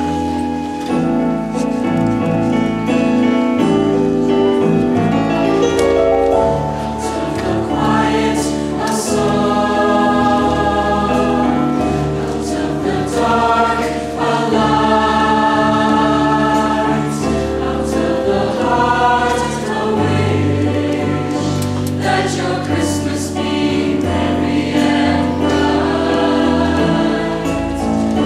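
A choir singing in harmony over an instrumental accompaniment with a sustained bass line, moving through held chords.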